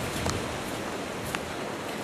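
Steady hiss of hurricane rain and wind, with a couple of faint sharp ticks.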